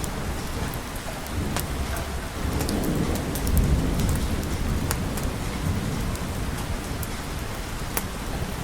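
Steady rain, with a low rolling rumble of thunder that swells in the middle and fades. Scattered sharp ticks sound over the rain throughout.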